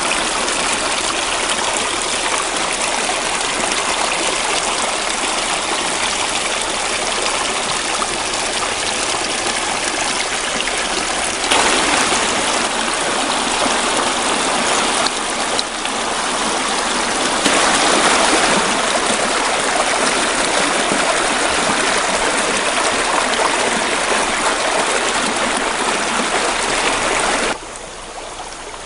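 Running water, a steady rushing like a stream or small waterfall, stepping louder twice and dropping near the end.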